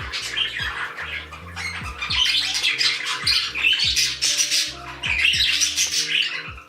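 A pet bird, a parrot or parakeet, chattering and squawking in irregular bursts over background music with a steady beat.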